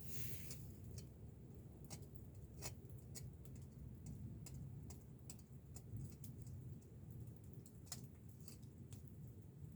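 Wood campfire crackling faintly: irregular sharp pops and snaps over a low steady rumble.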